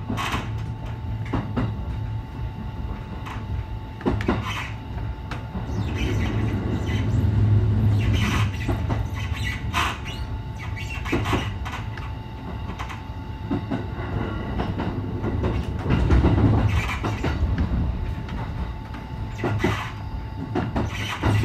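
Electric commuter train running along the line, heard from inside the leading car: a steady low rumble with sharp, irregularly spaced clacks of the wheels over rail joints and points.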